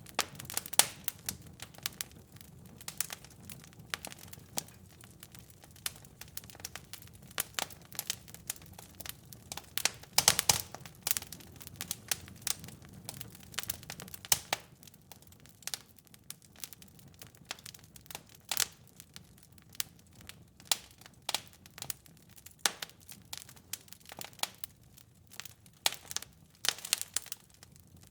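Wood fire in a fireplace crackling, with irregular sharp pops and snaps over a soft low rumble that fades about halfway through; the loudest cluster of pops comes about ten seconds in.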